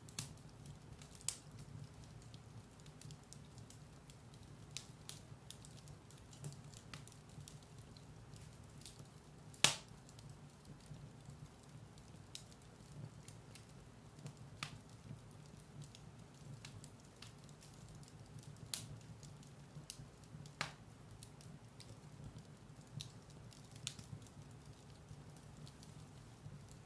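Wood fire burning in a fireplace: scattered sharp crackles and pops over a steady low rumble, with one louder pop about ten seconds in.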